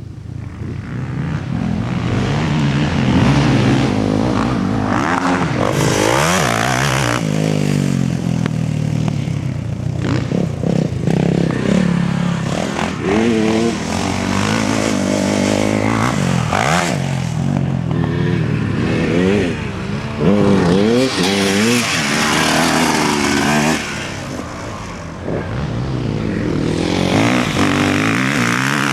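Several motocross bike engines revving hard and easing off over and over as riders pass on the track, the pitch climbing and dropping with each throttle change and several bikes overlapping.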